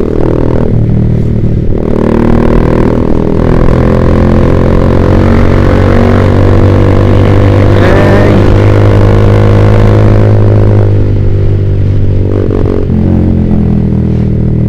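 Single-cylinder Yamaha Vixion motorcycle engine running through a Proliner TR1 R aftermarket exhaust while riding: it pulls and holds steady, eases off about eleven seconds in, then picks up again near the end.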